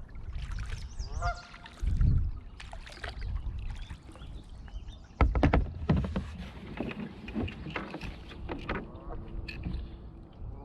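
Kayak paddle strokes dipping and dripping water, with two heavier thumps of the paddle or hull about 2 and 5 seconds in. A waterbird honks a few short times, once about a second in.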